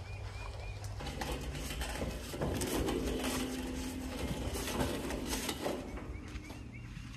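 A bird sings a series of short, quickly repeated chirps near the start and again near the end. In between come irregular knocks and rattles from a stainless steel work table being moved across the grass.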